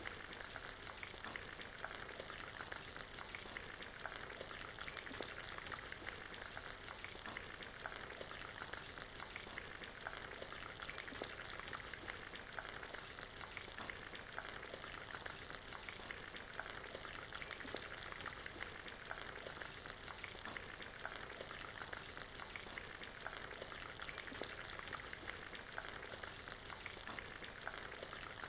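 Steady rain together with a crackling fireplace fire: an even hiss dense with small pops and ticks.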